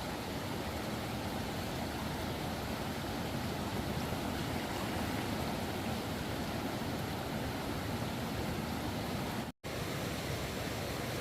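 Steady rushing noise of water, like fast floodwater or heavy rain, with a brief complete break about nine and a half seconds in.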